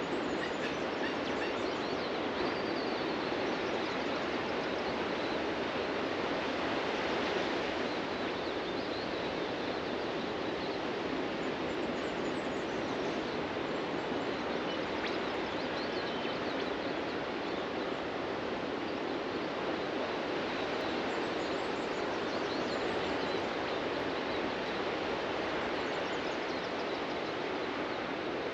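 Ocean surf washing onto a beach as a steady wash of noise, with faint bird chirps here and there above it.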